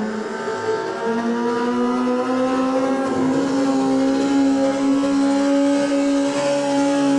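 Racing motorcycle engine giving a drawn-out drone; its pitch rises about a second in and then holds steady.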